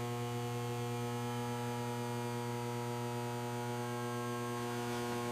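A steady low electrical hum of several held tones, with a faint hiss.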